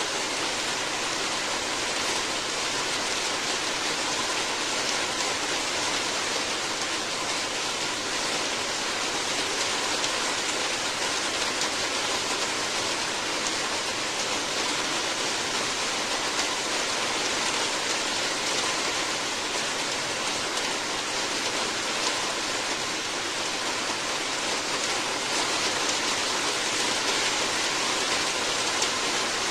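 Steady heavy rainfall, an even hiss of many drops with no breaks or single sounds standing out.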